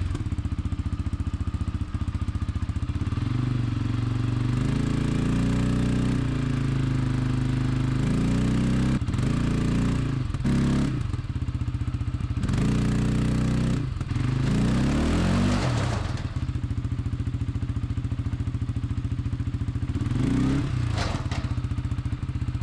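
A vehicle engine running under load, revving up and falling back several times through the middle and again near the end.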